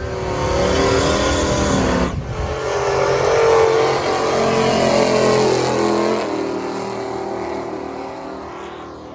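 Drag racing car accelerating hard down the strip, its engine rising in pitch, breaking off for a gear shift about two seconds in, then pulling again and fading away toward the end.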